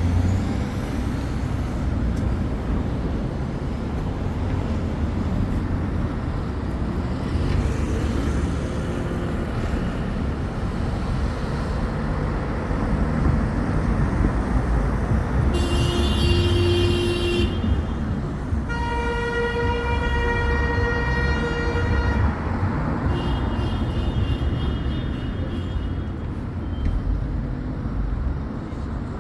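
Steady low rumble of road traffic, with long, held, horn-like tones a little past the middle: one about two seconds long, then another of about three and a half seconds.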